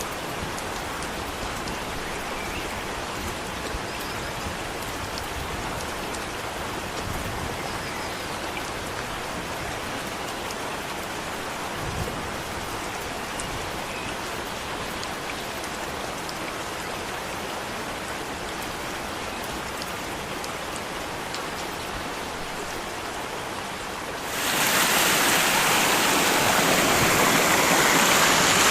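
Steady rush of falling water, a waterfall's roar. It grows louder and harsher for about four seconds near the end.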